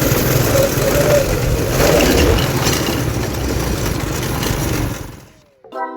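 Twin-engine go-kart's small engines running at low speed while crawling over rocks; the engine sound fades out about five seconds in, and a pitched musical note starts just before the end.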